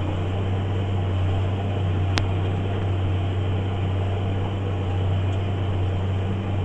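JCB Fastrac 8250 tractor running steadily under ploughing load, a constant low engine drone. A single sharp click comes about two seconds in.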